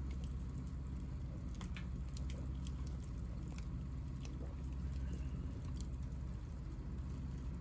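Hinoki cypress scrap wood burning, with scattered sharp crackles and pops over a steady low rumble.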